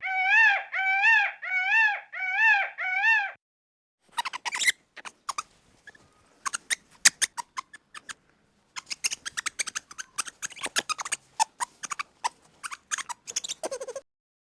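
An animal crying five times in quick succession, high-pitched with a wavering arch to each cry, followed by a long run of short clicks and squeaky chirps.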